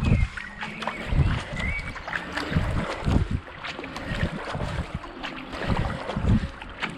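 Kayak paddle strokes splashing at a steady racing rhythm, about one every second, with wind buffeting the action-camera microphone.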